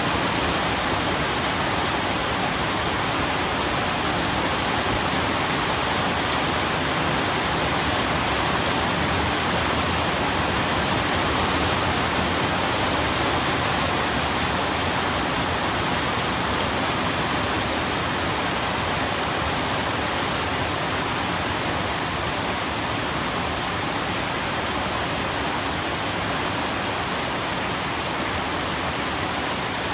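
Steady rain: a dense, even hiss of falling rain with no separate drops or thunder standing out.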